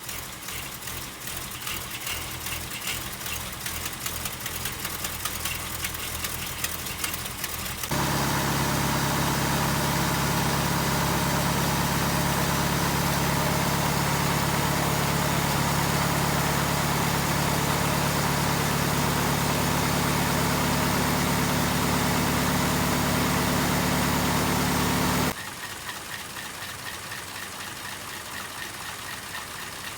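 Rebuilt engines idling in separate recordings joined back to back. First a lighter idle with a rapid ticking, then a louder, steadier idle with a strong hum, then near the end a quieter ticking idle again; each change is abrupt.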